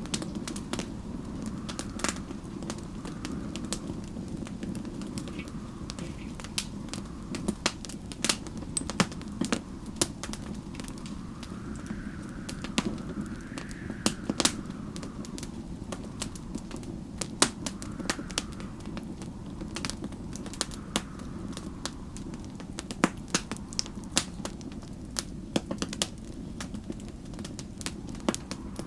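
Wood fire crackling, with frequent irregular sharp pops and snaps over a steady low rush. Snowstorm wind swells and fades in a faint higher tone every few seconds.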